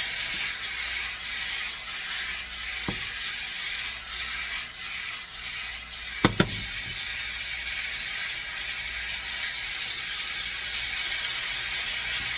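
Chicken strips frying in hot sunflower oil in a skillet, a steady sizzling hiss. A light knock about three seconds in and two sharp knocks close together about six seconds in.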